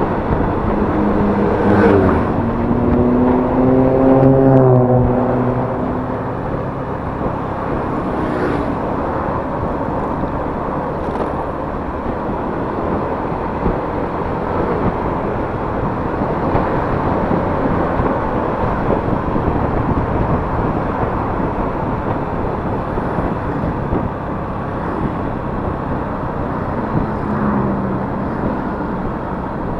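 Yamaha Mio S 125 cc scooter riding along, its engine running under steady wind and road rush on the chest-mounted camera's microphone. A louder engine note rises and then falls away a couple of seconds in.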